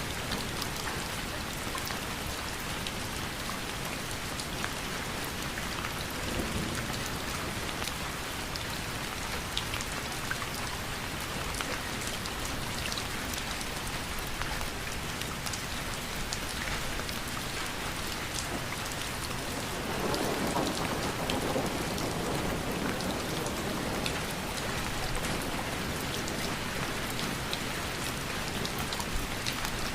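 Steady rain falling, with many separate drops ticking on a surface. About two-thirds of the way through it swells louder and deeper for a few seconds.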